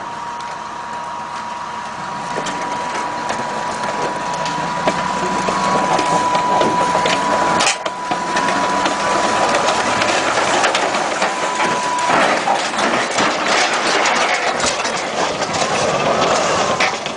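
Loud, dense crunching and crackling of heavy machinery at work, with a steady high tone that stops about twelve seconds in and a sharp click with a brief drop a little before eight seconds.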